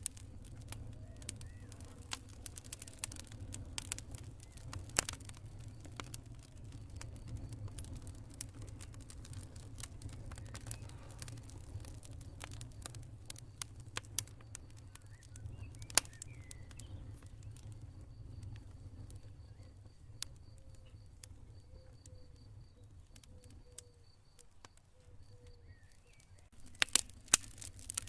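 Campfire burning: scattered sharp crackles and pops over a low steady rumble, the pops thinning out through the middle and bunching up again near the end. A faint, high, evenly pulsed cricket trill comes in around the middle and stops shortly before the end.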